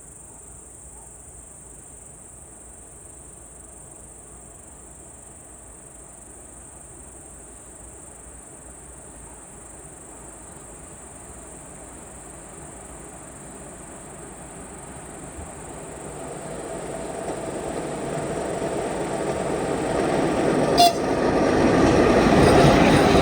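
Steady high insect chirring at first. Then the approaching ChS7 twin-section electric locomotive and its passenger train, a rumble of wheels and motors that grows steadily louder over the last several seconds and covers the insects. A brief sharp sound cuts through about three seconds before the end.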